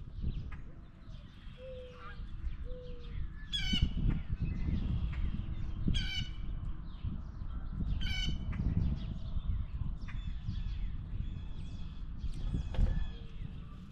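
Blue jay calling: three loud, harsh calls about two seconds apart, over a steady low rumble and a few fainter, softer calls.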